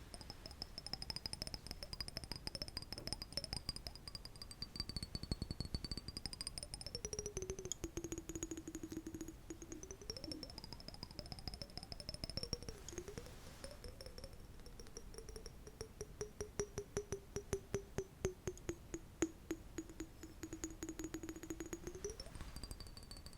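Rapid, light ASMR tapping, many soft clicks a second, with a stretch of stronger, spaced taps in the second half, over soft synth-like background music whose held tones slowly drift up and down in pitch.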